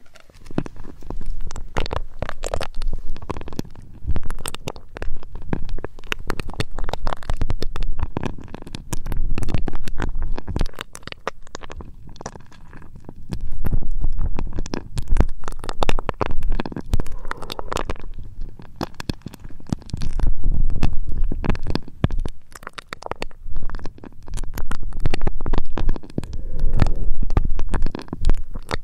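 Close rubbing, scratching and crackling right against the ears of a 3Dio binaural microphone, ASMR trigger sounds with a heavy low rumble. It comes in loud surges of a few seconds each.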